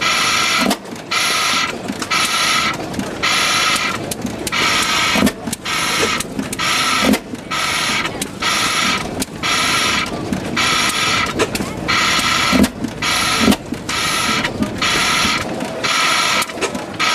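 Hit-and-miss engine running: a rhythmic high buzzing chatter that comes about one and a half times a second, with an occasional low thump.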